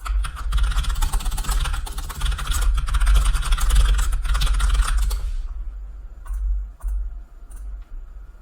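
Rapid typing on a computer keyboard for about five seconds, then a few scattered key clicks, over a steady low hum.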